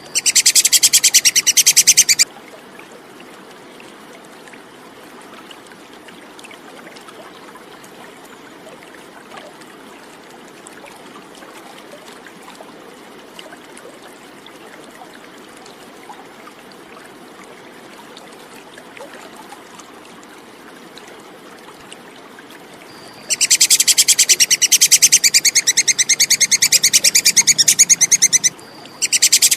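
Tupai kekes (tree squirrel) giving its rapid, high-pitched chattering call in bursts: one of about two seconds at the start, then a long stretch of faint background hiss, then a longer burst of about five seconds near the end, broken by a short pause before the call starts again.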